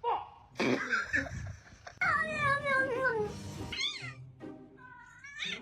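Domestic cat meowing several times, with one long drawn-out meow about two seconds in that slides down in pitch.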